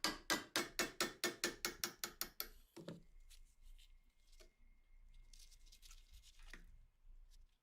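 Rapid, even ratchet-like clicking, about six clicks a second, stopping about two and a half seconds in. It is followed by faint scraping and rubbing from hand work on a rusted M1911 pistol.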